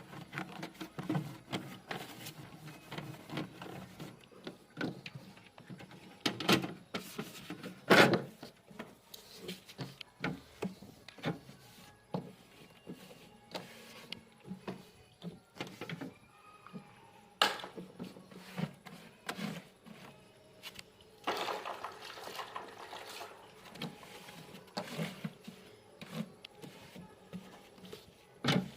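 Irregular knocks, clicks and rattles of hard objects being handled, with two sharper knocks standing out and a couple of seconds of steady noise about three-quarters of the way through.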